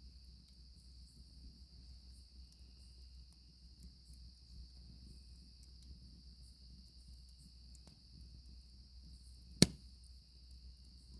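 Crickets chirring in a steady high continuous drone over a low rumble and faint scattered crackles from a campfire, with one sharp, loud pop from the fire about nine and a half seconds in.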